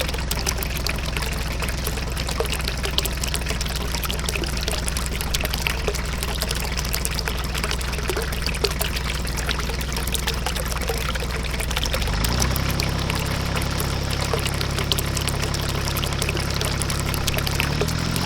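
Water pouring and trickling steadily, as from a small pump outlet into a miniature pond or aquarium. Under it runs a low steady hum that shifts in pitch about twelve seconds in.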